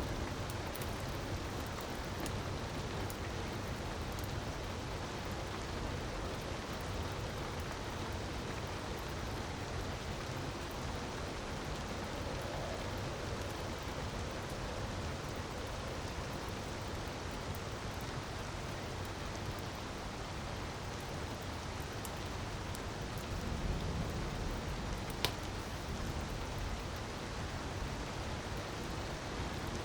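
Steady hiss of falling water under the small, scattered pops of a crackling fireplace fire. A low rumble swells about 23 seconds in, and a single sharp crack comes a couple of seconds later.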